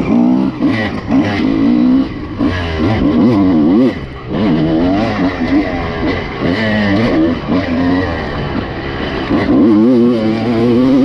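Honda CR250 two-stroke single-cylinder motocross engine revving hard and dropping back again and again, its pitch climbing and falling every second or so as the bike is ridden through the throttle and gears.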